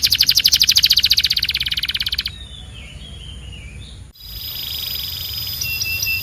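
Canary singing: a very fast, even trill of high notes, then softer notes, a brief break about four seconds in, and a held high whistle over a buzzy trill with short notes near the end.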